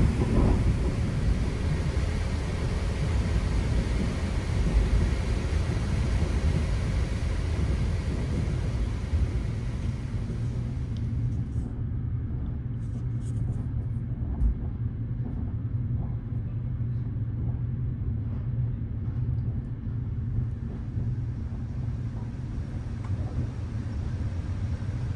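Steady low rumble of a sleeper train coach running along the track, heard from inside the coach. About halfway through the higher hiss drops away, leaving the deep rumble with a few faint clicks.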